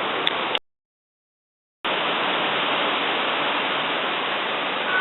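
Steady rushing noise, like heavy rain or running water, broken by a clean drop-out to dead silence for about a second shortly after the start, then resuming unchanged.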